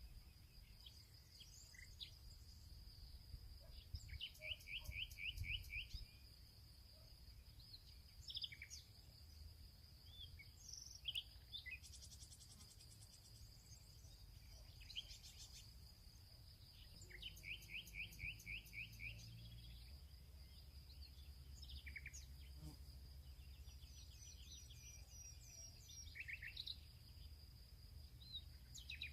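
Field birdsong: several birds call at scattered moments, and one sings a rapid trill of repeated notes twice, once early and once past the middle. Under it runs a steady high insect drone and a low rumble.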